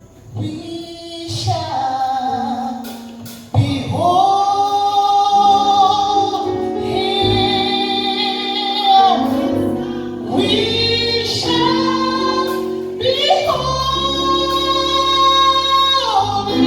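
A woman singing a gospel song over instrumental backing, holding long notes with vibrato; a steady bass comes in near the end.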